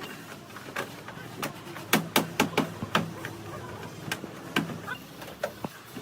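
A run of irregular sharp knocks and clicks, some with a short ringing tone after them, bunched closely about two seconds in.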